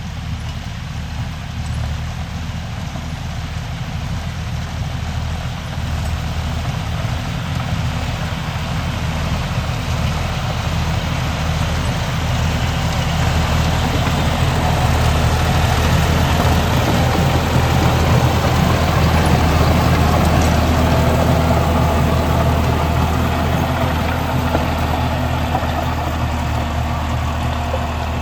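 John Deere 5310 tractor's diesel engine running steadily. It grows louder toward the middle, then eases slightly near the end.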